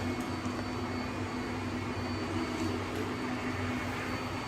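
Robot vacuum's suction motor running with a steady hum and an even whoosh of airflow.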